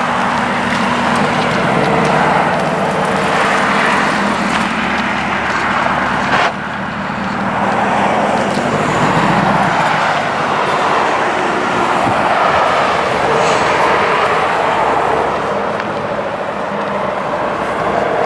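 Car engines running as cars pull up, with a steady engine and road noise that breaks off abruptly about six and a half seconds in and picks up again.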